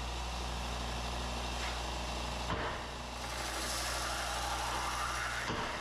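Belt sander running with a steady motor hum while a 120-grit belt grinds a Damascus steel knife blade, the grinding hiss growing brighter in the second half.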